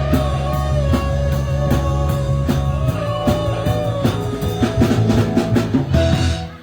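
Live rock band playing, with drum kit, electric guitar and bass and a long held, slightly wavering note. The music stops suddenly near the end as the song finishes.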